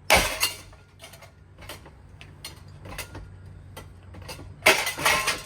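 Hampton Bay Waterton ceiling fan being smashed: a loud burst of clattering metal and glass impacts just after the start and another near the end, with scattered clinks and rattles between over a low steady hum.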